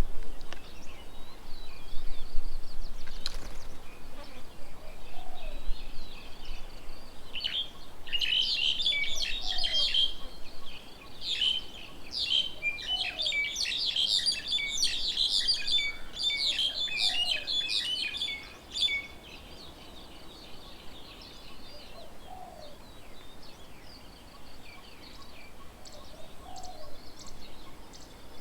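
Several small birds chirping and calling, building to a dense burst of rapid high chirps mid-way that thins out again. A faint low note repeats every few seconds underneath.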